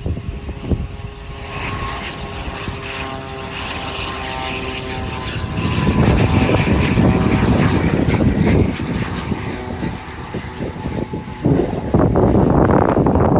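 ATR 72-600's twin turboprop engines and propellers, with a steady propeller drone that grows much louder about halfway through as the aircraft comes close.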